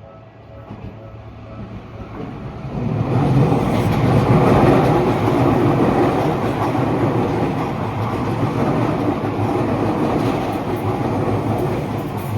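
Tokyu Oimachi Line electric train running through a level crossing, with steel wheels on rail and a clickety-clack. It builds over the first three seconds, is loudest about four to six seconds in, and eases a little toward the end.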